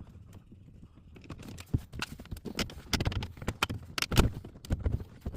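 Irregular knocks and clicks of hard plastic dash trim as the glove box is worked loose from a VW Mk4 dash; they begin about a second and a half in and come thick and uneven, some sharp and loud.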